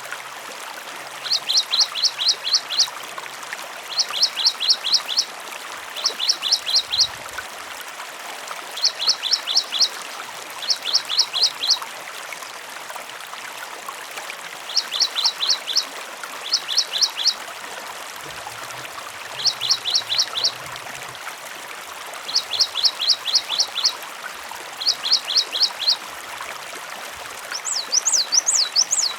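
Cinereous tit (gelatik batu) singing short, fast phrases of about six high notes each, repeated every one to two seconds, over a steady sound of running water. Near the end a different, wavering call goes higher.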